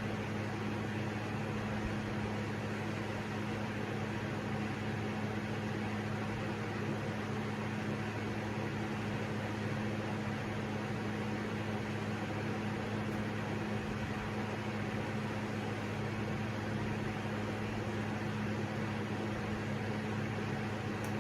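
Steady whir of electric fans running with a low, even hum: an SMC Laguna ceiling fan on medium speed, itself nearly silent with no bearing or buzzing noise, and a portable fan running alongside.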